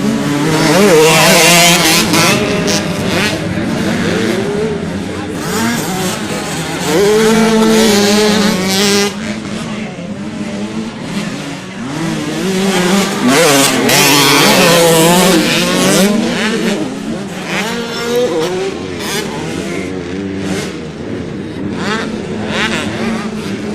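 Racing motorcycle engines revving up and down as bikes race past, the sound swelling loudest three times as they go by.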